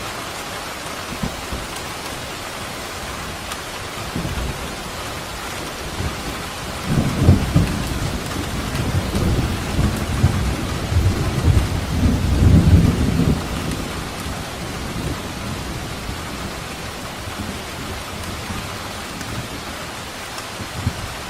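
Steady heavy rain hissing, with a roll of thunder rumbling low from about a third of the way in and fading out past the middle.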